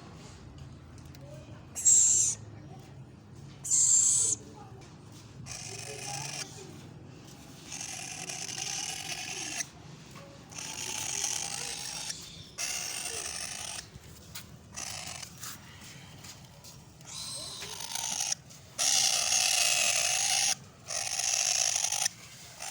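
Black-capped lory chicks making harsh, raspy calls in repeated bursts of about half a second to two seconds each, with short shrill screeches about two and four seconds in and the loudest, longest calls near the end.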